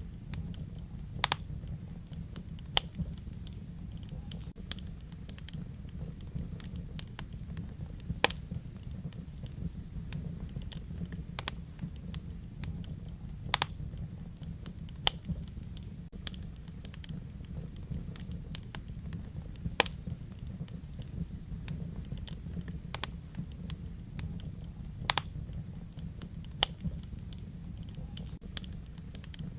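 Wood fire burning in a fireplace: a steady low rumble of flame with irregular sharp crackles and pops, a dozen or so of them louder snaps.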